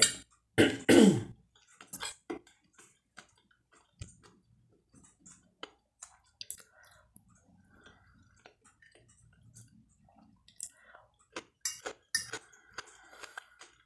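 Close-up eating sounds: soft chewing and mouth clicks of someone eating fried smoked sausage and cucumber, with a few sharper clinks of a fork on a glass plate near the end. A short voiced sound comes about a second in and is the loudest thing.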